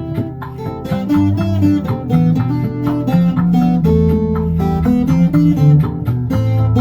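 Cuban tres, tuned B–G–D, plucked and strummed in a quick rhythmic pattern over a backing track with sustained low bass notes.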